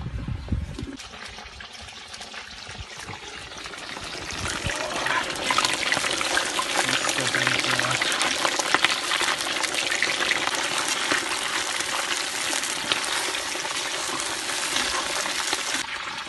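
Beef frying in hot oil in a kazan, sizzling and crackling densely. The sizzle builds up about four to five seconds in and stays loud, after a brief low rumble in the first second.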